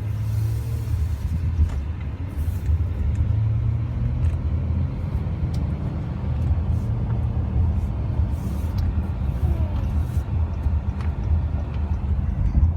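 Steady low rumble of a car driving, heard from inside the cabin: road and engine noise with no sudden events.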